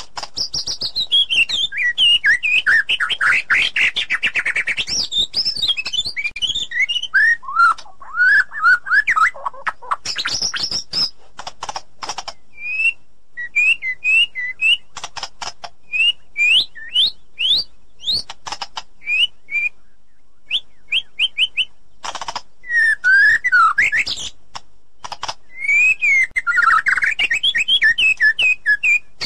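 White-rumped shama singing a fast, varied song of clear whistles and chirps, many notes sweeping quickly upward, with a short pause about two-thirds of the way through.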